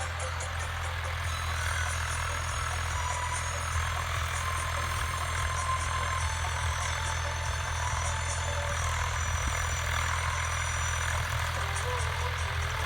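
Heavy diesel engine running steadily, with high-pitched whining tones over it for most of the stretch.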